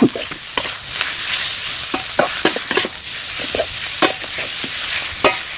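Stir-fry sizzling in a hot pan while a spatula scrapes and knocks against the pan, with short clanks every fraction of a second.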